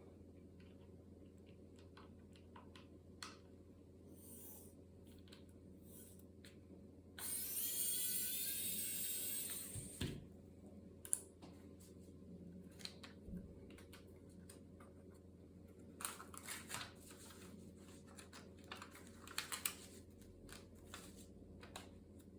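Small handling noises of hands working on laptop parts: scattered clicks and taps, with a louder scraping, tearing noise lasting about three seconds about seven seconds in, and a run of rustles and clicks near the end.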